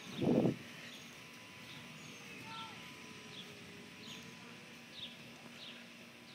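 A bird repeating a short, high, downward-sliding chirp about every three quarters of a second, over faint outdoor background noise. A brief low bump, the loudest sound, comes right at the start.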